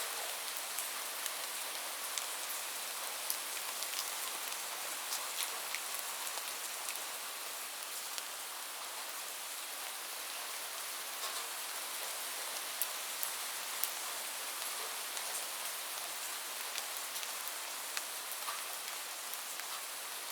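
Steady rain falling on a surface, an even hiss with many individual drops pattering through it.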